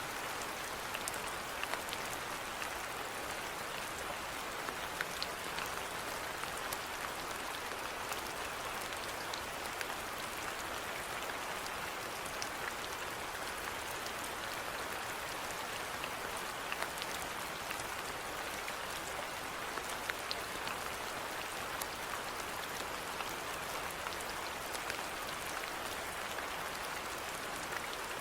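Steady rainfall: an even hiss of rain with many small scattered drop ticks, unchanging throughout.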